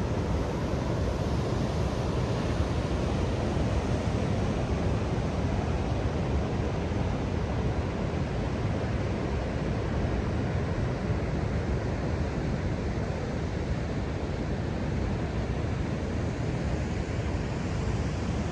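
Steady rush of Indian Ocean surf breaking on the shore, with wind on the microphone.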